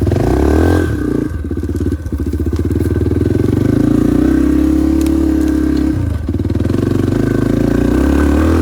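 Yamaha TT-R230 dirt bike's single-cylinder four-stroke engine running under throttle, its pitch rising and falling, with brief drops in revs about one, two and six seconds in.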